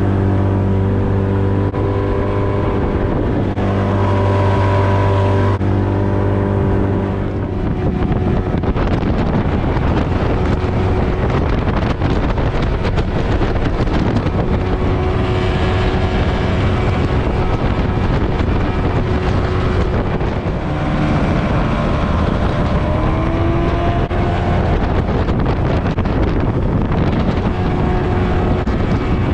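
Small boat's outboard motor running under way, with wind buffeting the microphone; the engine note rises for a few seconds past the middle.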